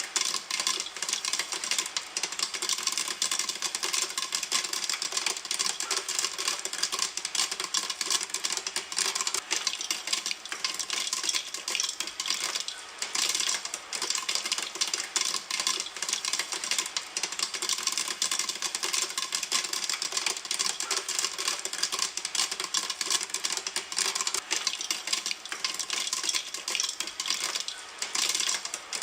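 Popcorn kernels popping in a pan: a dense, continuous patter of many small sharp pops, with no let-up.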